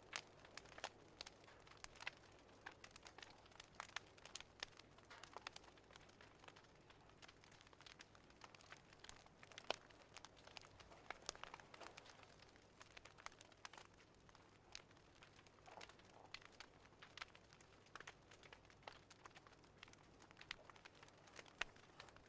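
Faint wood fire crackling, with irregular sharp pops and snaps over a low hiss.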